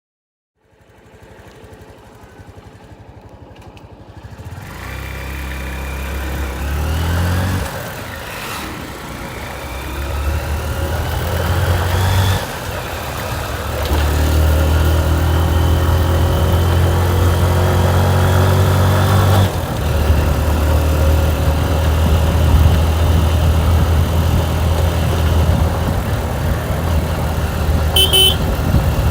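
Motorcycle engine pulling away and accelerating, its pitch climbing in each gear and dropping back at three gear changes, with steady running between. There is a short high beep near the end.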